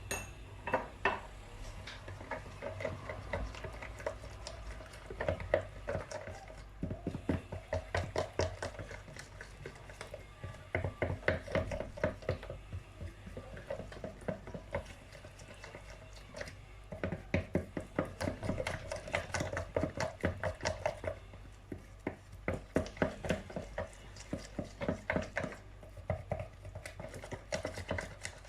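Cake batter being beaten by hand in a bowl: rapid clicking strokes of the utensil against the bowl, in bursts with short pauses.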